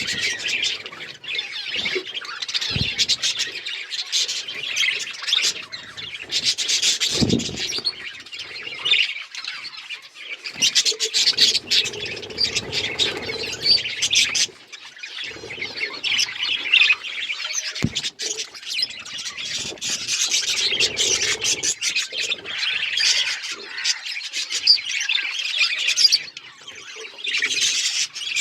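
Budgerigars chattering and chirping continuously, several birds at once in dense high warbling, with a few dull knocks.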